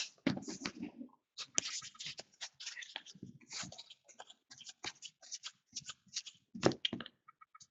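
Faint, irregular rustles and small clicks of glossy basketball trading cards being slid and flipped over by hand, one a little louder near the end.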